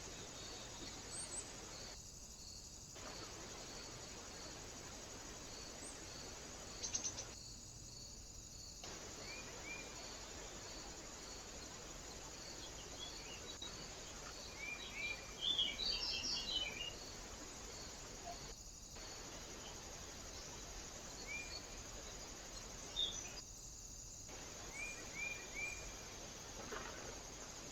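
Small birds chirping in short, scattered notes, busiest about halfway through. Under them runs a faint, regular high chirping about twice a second and a steady hiss, and the sound drops out briefly a few times.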